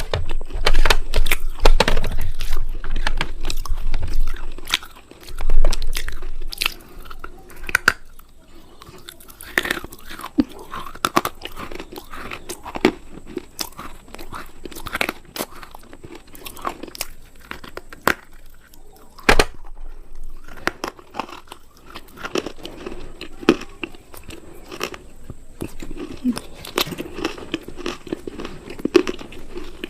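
Close-miked crunching and chewing of a hard, brittle food. There are loud bites with heavy crunches in the first few seconds, then quieter continuous chewing with crackly crunches.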